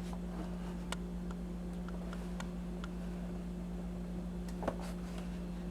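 Steady low electrical hum with a few faint clicks and taps from a boxed toy set being handled, one slightly louder tap a little before the end.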